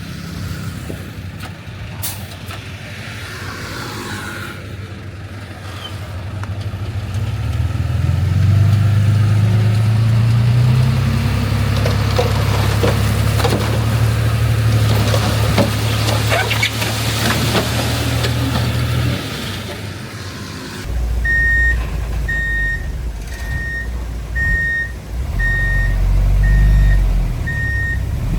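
Heavy earthmoving machinery running, its diesel engine drone swelling under load about eight seconds in, with scattered clattering through the middle. Then a reversing alarm beeps steadily about once a second over the lower engine rumble as a machine backs up.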